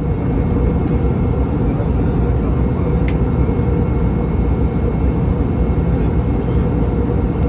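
Steady cabin noise of an Airbus A320 in flight: a low rumble of airflow and its CFM56 engines, with a faint steady high whine and a single click about three seconds in.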